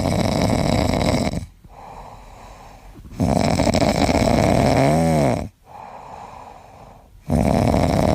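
A sleeping animal snoring, with three loud snores about three and a half seconds apart and quieter breathing between them; the middle snore carries a short wavering whistle.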